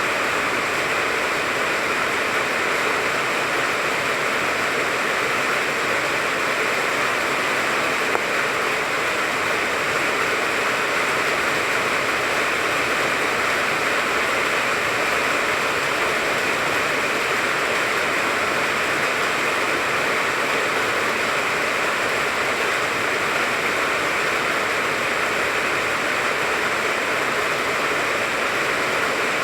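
Steady, unbroken rain falling on the leaves of a tangerine tree.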